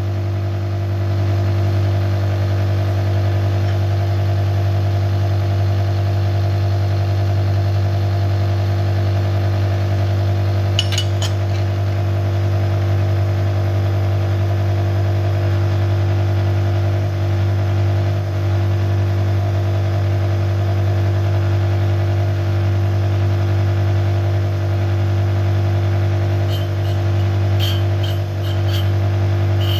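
Steady hum of a shop machine's electric motor running while connecting rods are machined, with a few light metallic clicks about eleven seconds in and again near the end.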